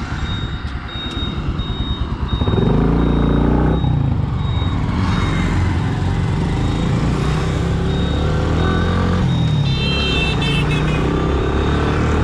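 Keeway RKS 100 single-cylinder four-stroke motorcycle engine pulling away and accelerating. It rises in pitch, drops at a gear change about four seconds in, then climbs again over wind and road noise. A short high-pitched beeping comes near the end.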